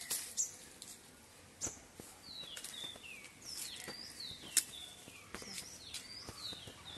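Birds chirping: short whistled notes sliding downward, repeating two or three times a second from about two seconds in, over a low outdoor background, with a few sharp clicks, the loudest about four and a half seconds in.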